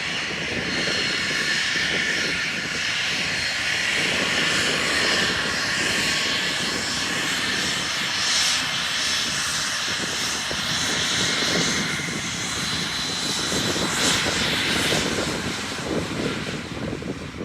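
Private jet's turbofan engines at takeoff power: a loud, steady roar with a high whine running through it.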